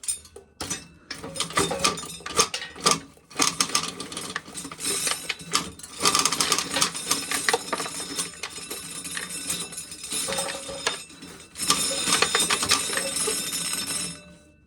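Corn sheller stripping kernels off an ear of corn: a dense, loud rattling clatter that breaks off briefly a few times and stops near the end.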